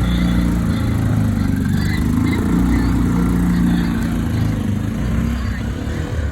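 Engine of a three-wheel motorcycle loading tipper running steadily.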